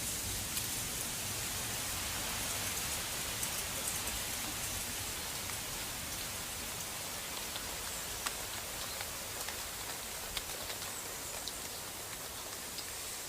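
Steady hiss of a snowstorm, with scattered light ticks of precipitation striking nearby surfaces.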